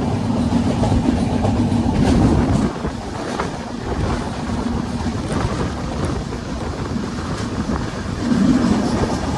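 Train running along the track: a steady low rumble with a hum, and wheels clicking over rail joints now and then. The rumble eases a little about a third of the way in and swells again near the end.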